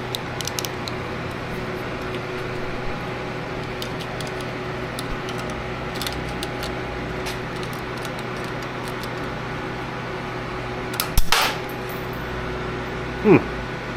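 Light metallic tool clicks and taps over a steady mechanical hum, then one loud sudden clank about eleven seconds in, as a hand wrench works on the garage door opener's fittings.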